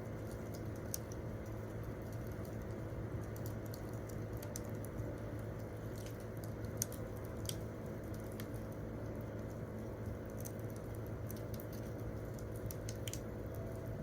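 Campfire crackling: irregular sharp pops and snaps of burning wood over a steady low background.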